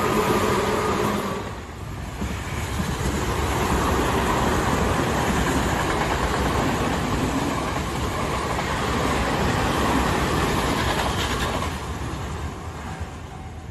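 Tobu Tojo Line electric train passing at speed: a continuous rumble and rush of wheels on rail. A steady motor whine is heard in the first second or so, the noise dips briefly just under two seconds in, and it fades over the last couple of seconds.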